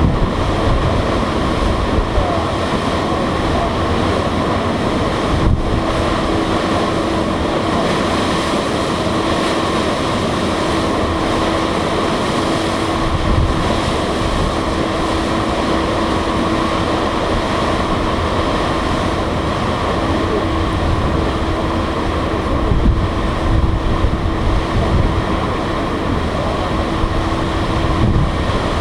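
High wind buffeting the microphone aboard a ferry under way, over the ship's steady machinery drone with a constant low hum.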